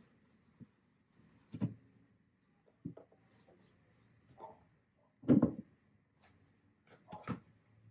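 Scattered handling sounds: a few separate knocks and rubs of objects being picked up and set down, the loudest a little past halfway.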